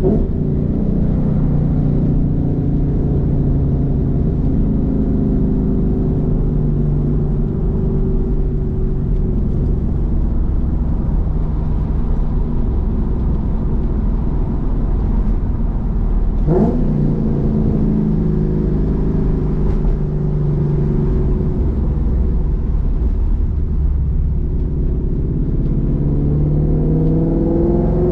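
Roush Mustang engine and exhaust heard from inside the cabin while driving: a steady cruising drone, a quick sharp rev about two-thirds of the way through, and rising pitch near the end as the car accelerates.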